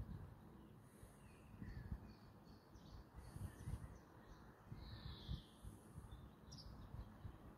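Faint birdsong: several wild birds chirping and calling in short high phrases, repeated every second or so, over a low rumble.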